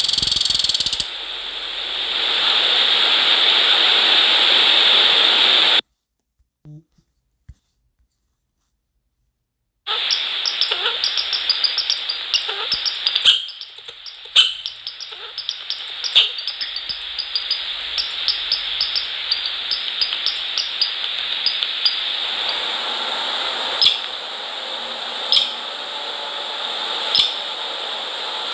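Steady hiss, broken by a few seconds of silence, then many short, high-pitched squeaks and chirps from small animals, coming thick and fast at first and then spaced out.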